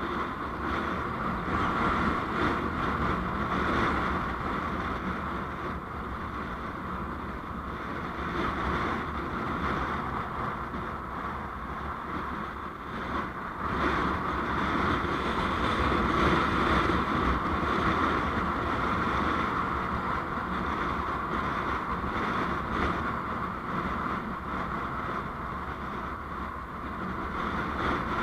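Steady engine and road noise of a vehicle on the move, rising and easing slowly, with no sudden events.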